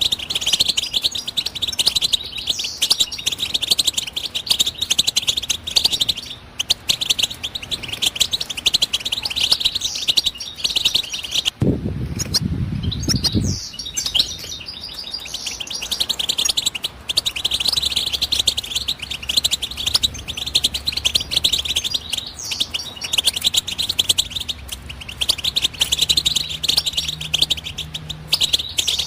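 European goldfinch singing a long, fast, twittering song with rapid high chirps, pausing briefly about halfway through, when a short low rumble is heard.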